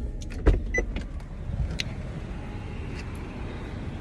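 Car running, heard from inside the cabin as a steady low rumble. A few clicks and knocks from handling come in the first second, the loudest a thump about half a second in.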